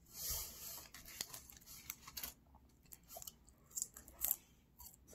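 Close-miked chewing of fast-food french fries: faint, irregular mouth clicks, with a brief louder hiss right at the start.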